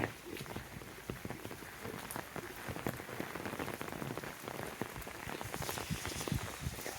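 Steady rain: many close, irregular drop hits over a constant hiss.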